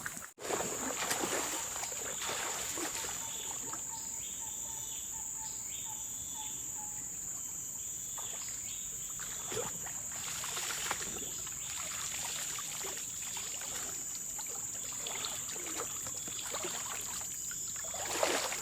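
Outdoor forest ambience: a steady high-pitched insect drone, irregular water splashing and sloshing, and a few faint bird calls in the middle.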